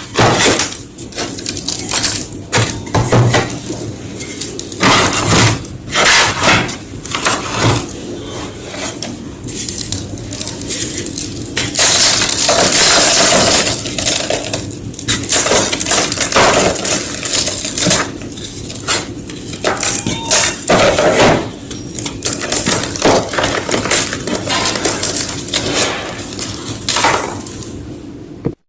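White gym chalk being crushed close to the microphone: dense, crisp crunching and crumbling, full of sharp irregular cracks, heaviest in an unbroken stretch about twelve seconds in.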